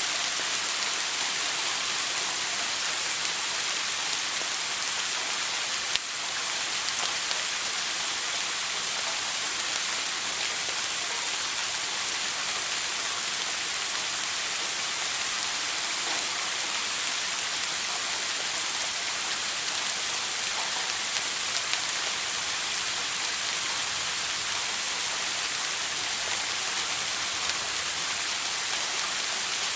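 Shower water spraying and splashing steadily, an even hiss with no change in level; a brief click about six seconds in.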